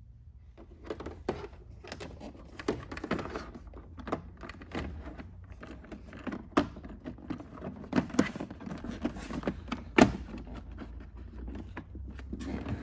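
Irregular clicks, knocks and light clatter of hard objects being handled, with one sharper knock about ten seconds in, over a low steady hum.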